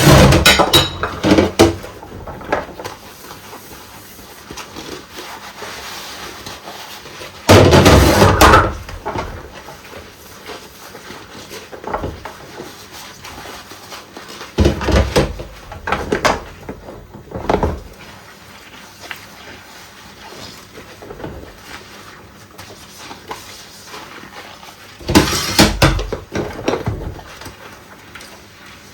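Dishes being washed by hand in rubber gloves: plates, pots and cutlery clattering and knocking together in the sink. There are bouts of louder clatter near the start, about eight seconds in, a few between fifteen and eighteen seconds, and one near the end, with quieter handling between them.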